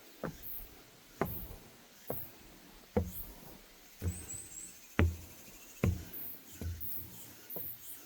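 Footsteps on a wooden deck boardwalk at a steady walking pace, about one step a second, each landing a short knock.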